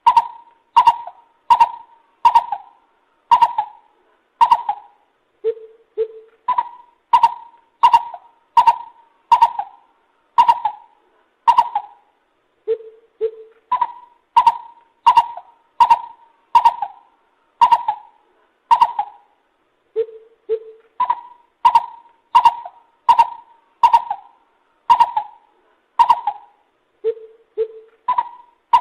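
Lesser coucal calling in repeated phrases, each made of two low hoots followed by a run of about eight to ten higher notes, roughly two notes a second. The phrase comes four times, about every seven seconds.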